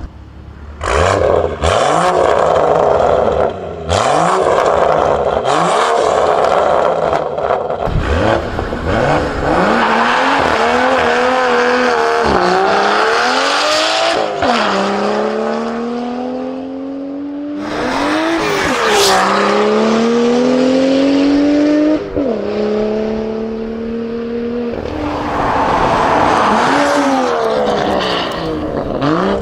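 BMW M2 (F87) turbocharged straight-six through an Armytrix valved exhaust, launched hard and accelerating through the gears. The engine note climbs in pitch, drops sharply at each upshift and climbs again, then falls away near the end.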